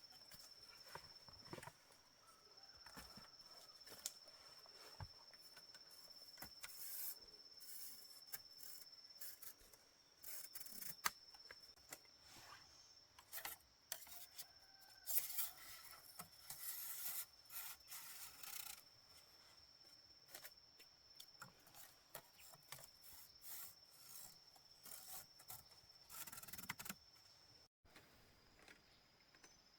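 Faint, irregular scraping and rubbing, over a steady high-pitched insect drone.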